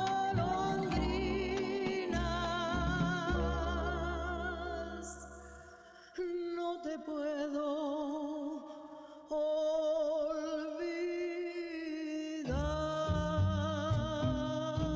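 Recorded song: a singer holds long notes with wide vibrato over instrumental backing. The backing fades away about five seconds in, leaving the voice almost alone, then returns strongly near the end.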